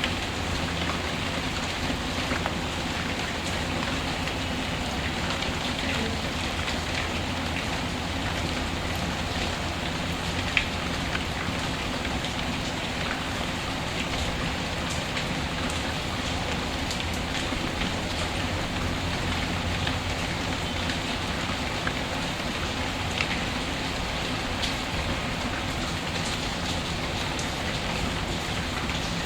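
Steady rain falling on a surface, with scattered sharp pops from a crackling wood fire, one louder pop about ten seconds in.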